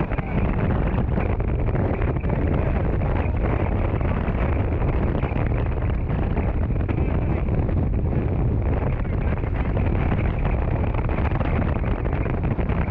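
Strong wind buffeting the onboard camera microphone as the Hobie 16 catamaran sails fast in high wind, a steady, heavy rumbling rush with no let-up.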